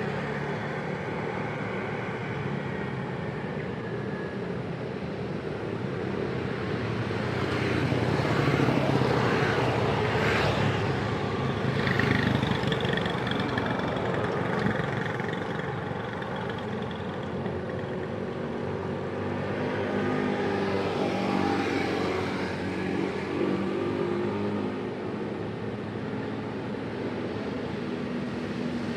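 Busy road traffic: a continuous stream of vehicles passing with engines running and accelerating. Louder passes swell up several times over the steady background noise.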